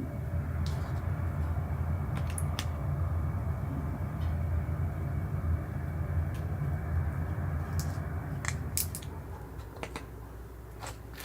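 Firewood fire crackling, with scattered sharp pops and snaps over a steady low rumble that drops away about eight and a half seconds in.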